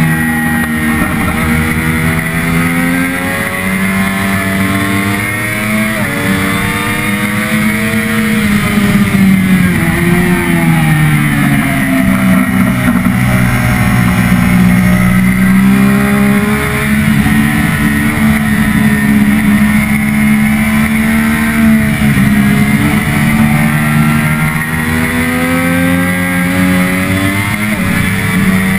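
Triumph Daytona 675R's three-cylinder engine at racing speed, its revs repeatedly climbing and then dropping sharply through gear changes, and falling away into corners. A heavy rush of wind runs under the engine note.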